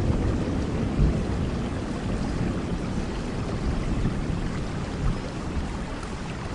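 Steady rain hissing, with a low rumble of thunder dying away over the first few seconds.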